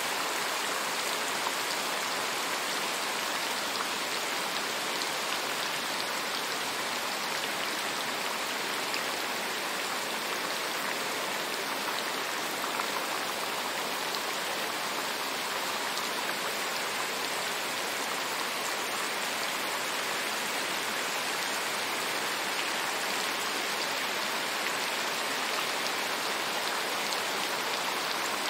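Steady rain falling, a dense, even patter of raindrops that neither builds nor eases.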